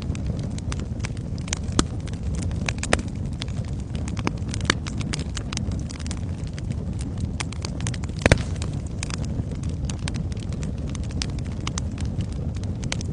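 Wood fire in a fireplace crackling, with irregular sharp pops over a steady low rumble of the flames; the loudest pop comes a little after eight seconds.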